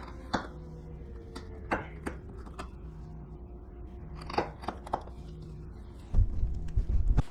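Hand chisel working walnut: single sharp taps and clicks of the chisel cutting and paring, a second or so apart. Near the end comes a louder, heavier run of knocking.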